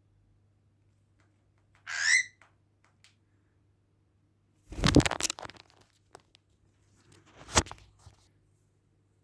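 A young cockatiel gives one short chirp that rises in pitch, about two seconds in. Two short bursts of rustling, knocking noise follow, near the middle and near the end, the first the louder.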